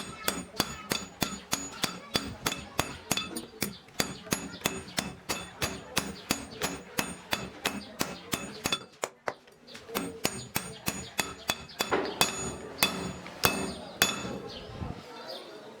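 A hammer striking scrap metal being shaped into a tyre lever: quick, regular ringing blows, about three or four a second. There is a brief pause a little past halfway, then the blows resume, less evenly and louder.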